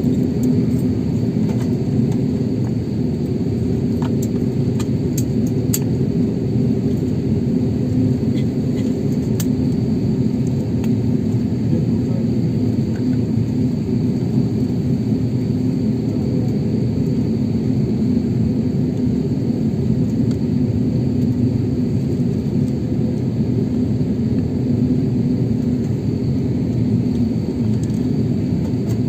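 Steady low rumble inside a jet airliner's cabin while it taxis after landing, with a faint high whine above it. A few light clicks come about four to six seconds in.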